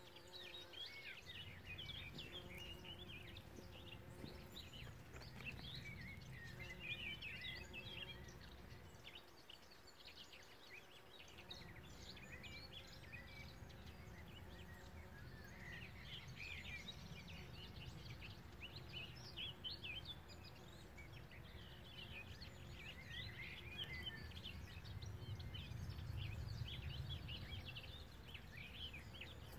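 A chorus of small songbirds singing and chirping, with several overlapping phrases of quick high notes coming and going. Beneath it runs a low rumble that drops away about nine seconds in and comes back a couple of seconds later.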